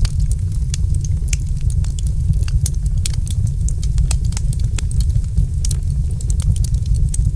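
Wood fire in a fireplace crackling: frequent irregular sharp pops and snaps over a steady low rumble.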